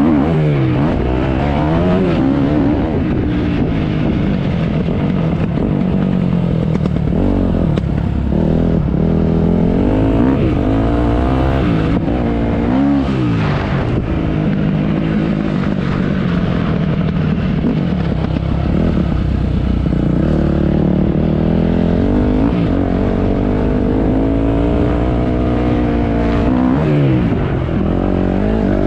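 Motocross dirt bike engine revving up and down as it is ridden, its pitch rising and falling every few seconds, with sharp drops in pitch near the middle and near the end.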